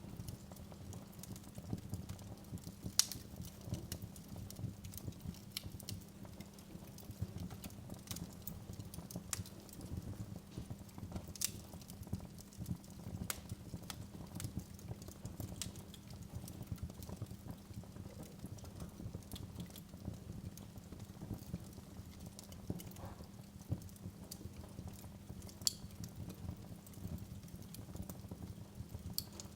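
Wood fire burning in a fireplace, crackling with irregular sharp pops over a low steady rumble of the flames. A few pops stand out louder than the rest.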